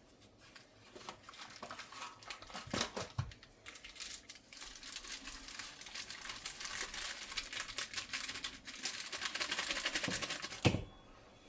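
Crinkling and rustling of packaging or paper being handled in the kitchen, growing denser, then ending with a sharp knock near the end.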